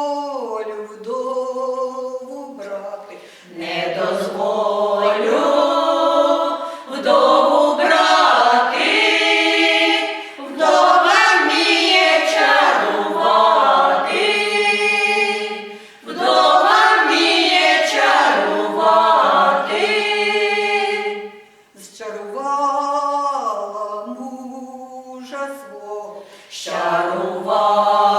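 Folk vocal ensemble singing a Ukrainian folk song a cappella in several voice parts. The song moves in long phrases, with short breaks between them.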